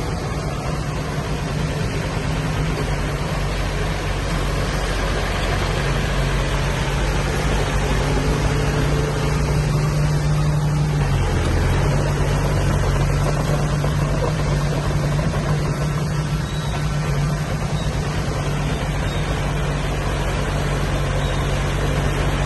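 Diesel engine of earthmoving machinery running steadily, its pitch dipping briefly about halfway through before settling back.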